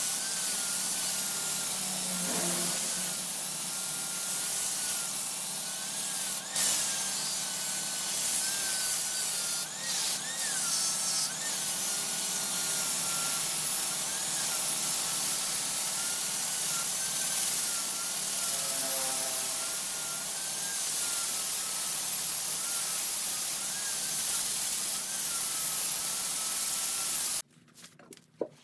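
A turning tool cutting into wood spinning on a large wood lathe: a continuous scraping, rushing noise with a faint steady hum and a wavering whine, cutting off suddenly near the end.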